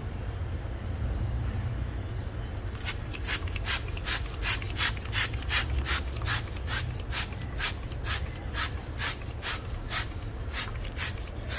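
Trigger spray bottle of Meguiar's Ultimate All Wheel Cleaner being pumped rapidly onto a car wheel: a quick run of short hissing spritzes, about three or four a second, starting about three seconds in, over a steady low rumble.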